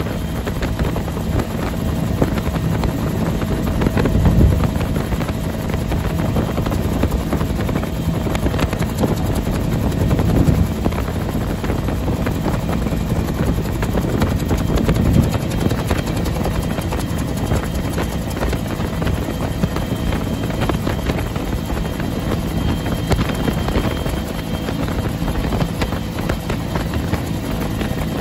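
Bell UH-1 Huey helicopter in flight: its turbine engine and two-blade rotor run steadily with a constant thudding drone, and a few brief low gusts swell up about 4, 10 and 15 seconds in.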